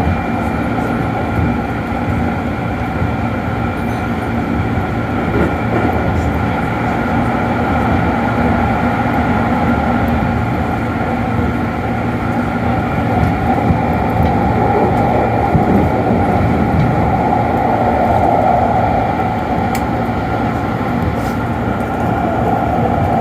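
Keikyu 1500 series electric train running at speed, heard from inside the car: traction motors and wheels on the rails make a steady rumble, with the whine of its field-chopper control.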